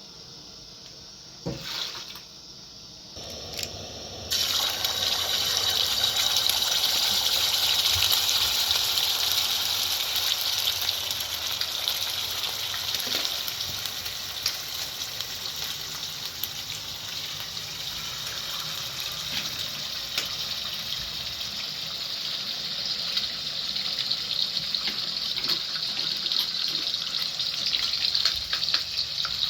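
Water running steadily, starting about four seconds in after a couple of short knocks.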